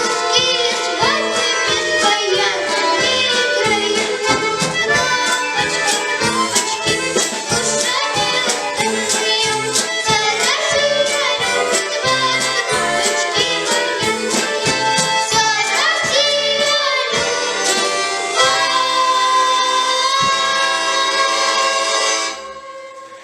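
Bayan (button accordion) orchestra playing a brisk piece in quick rhythmic chords, closing on a long held chord that breaks off shortly before the end.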